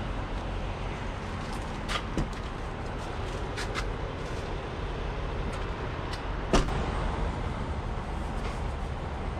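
Steady rumble of a motor vehicle running, with a few sharp clicks, the loudest about six and a half seconds in.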